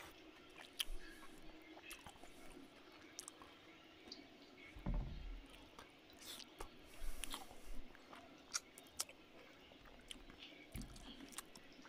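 A man chewing a mouthful of rice and curry eaten by hand, with scattered small sharp clicks and wet mouth sounds. Two soft low thumps, one about five seconds in and one near the end.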